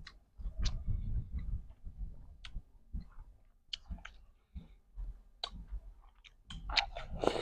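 Two people eating watermelon slices fast, biting and chewing the flesh off the rind. Short, sharp clicks come throughout, with a busier, louder stretch near the end.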